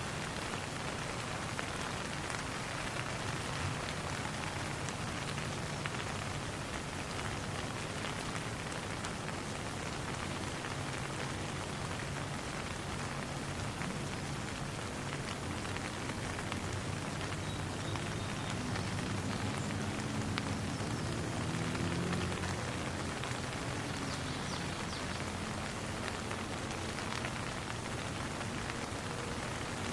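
Steady rain falling, with individual drops ticking among the even hiss. A faint low hum swells briefly about two-thirds of the way through.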